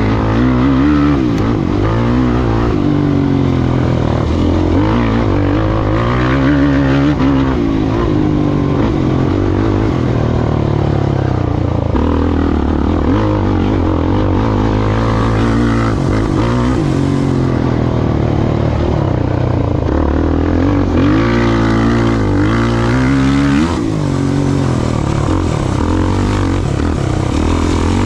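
Off-road race vehicle engine under hard running, its pitch rising and falling over and over as the throttle is worked on and off.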